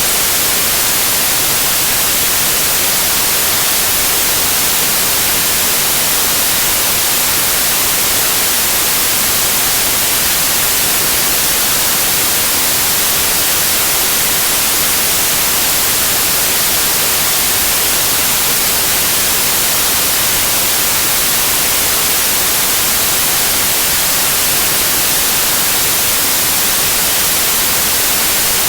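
Steady white noise in the manner of TV static: an even, unbroken hiss, strongest in the highs, that does not change.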